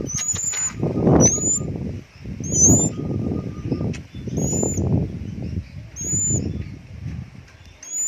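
Small caged songbirds: a short, high, upward-hooked chirp repeats about every second and a half, over louder rough bursts of wing flapping about a second long.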